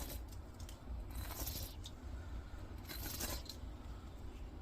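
Faint handling noise from small electricity-meter parts being turned over by hand: a few brief scrapes and light clinks, over a low steady hum.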